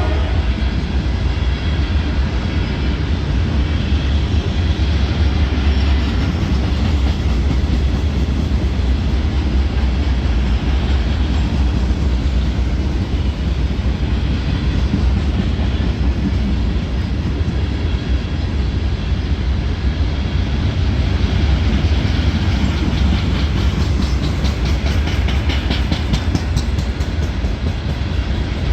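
Loaded CSX rock train rolling past: a steady, heavy rumble of steel wheels on rail, with a run of rapid clicking and clacking from the wheels near the end.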